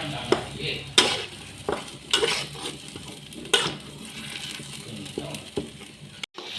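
A utensil stirring, scraping and knocking against a pan as ground spice paste with lemongrass, turmeric leaf and bay leaves fries in hot oil, with a steady sizzle underneath.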